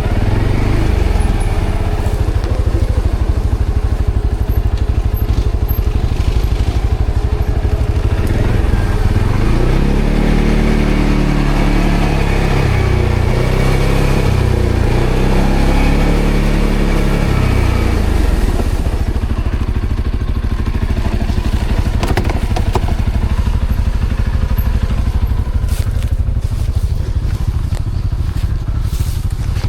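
ATV engine running steadily, revving up and down between about 10 and 18 seconds in. A few knocks or clatters come near the end.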